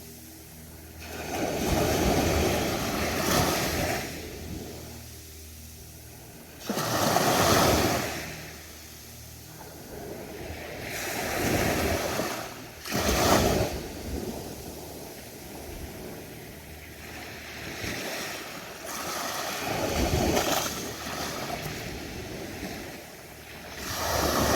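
Ocean waves breaking and washing up the beach, the surf swelling and falling away every few seconds.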